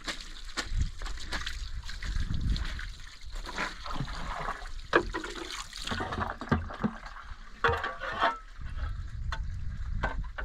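Water splashing and sloshing in irregular bursts, with a trickle and short knocks, as hands work in a shallow spring pool.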